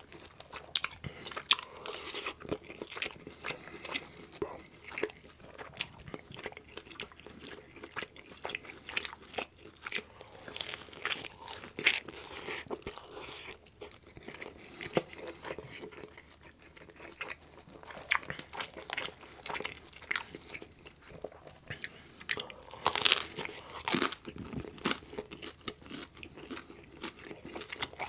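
Close-miked eating of meat-loaded pizza: bites into crust and toppings followed by wet chewing and smacking, with irregular crunches, the loudest about 23 seconds in.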